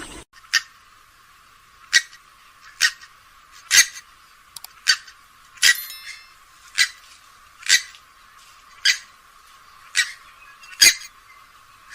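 Grey-headed swamphen giving short, sharp calls, about one a second, repeated steadily.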